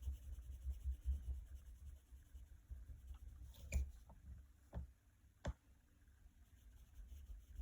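Faint strokes of a colouring tool on paper as a shape is filled in, with three light taps in the second half.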